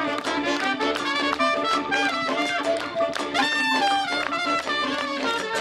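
Big jazz band playing live: a horn section of trumpet and saxophones holding and moving through pitched lines over steady drums and percussion.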